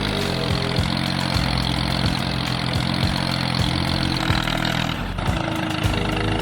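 A vehicle engine or motor running steadily with a constant hum; the pitch of the hum shifts about five seconds in.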